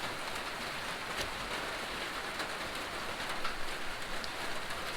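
Steady rain falling on a tin roof, an even patter of drops on the metal sheeting.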